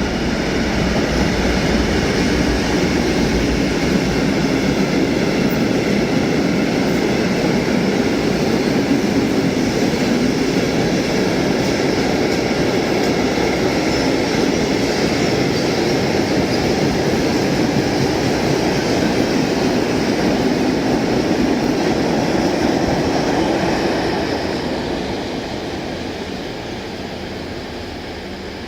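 A freight train hauled by a DB Class 233 diesel locomotive passes with a steady, loud rolling noise, then fades away over the last few seconds.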